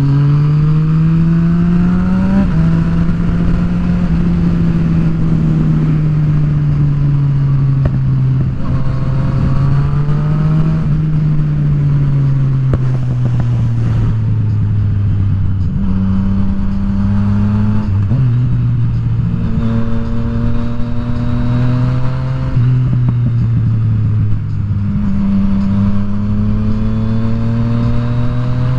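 Yamaha FZ-09's 847 cc inline-three engine under way on a ride, pulling up in pitch over a couple of seconds, dropping at gear changes, and easing back off, about five times over.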